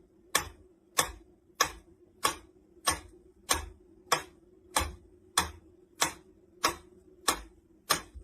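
Steady, even ticking, about three sharp ticks every two seconds, over a faint low hum.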